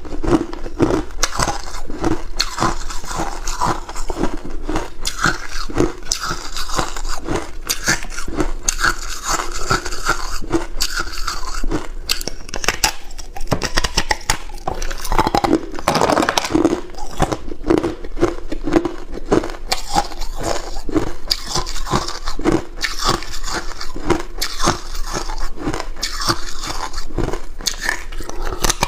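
Close-up crunching of hard cube ice being bitten and chewed, a rapid run of sharp crackling crunches several times a second.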